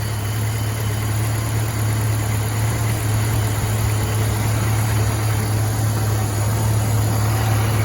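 1992 Jeep Wrangler YJ's 2.5-litre four-cylinder engine idling steadily, still cold from a cold start with the block at about 28 degrees.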